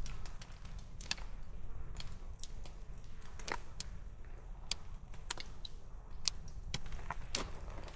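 Campfire wood crackling, with irregular sharp pops and snaps every half second or so over a low steady rumble.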